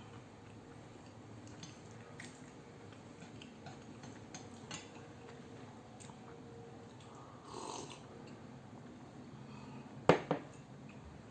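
Quiet eating of Chapagetti noodles: faint chewing and small scattered clicks, a short noisy sound a little after the middle, and two sharp clinks of utensils on the bowl about a second before the end, the second softer than the first.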